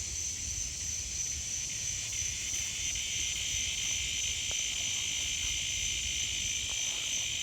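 Steady outdoor insect chorus: a continuous high-pitched trilling in two bands, with a low hum beneath and a couple of faint ticks.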